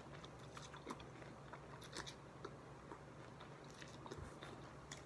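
A person quietly chewing a mouthful of chicken pho, with a few faint, scattered wet clicks and crunches.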